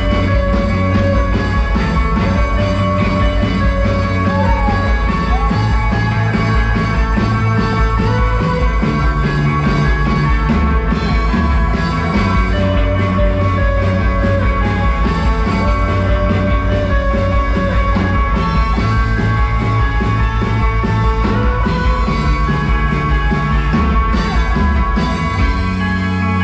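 A band playing live: an instrumental passage with sustained pitched parts, a strong bass line and a steady beat.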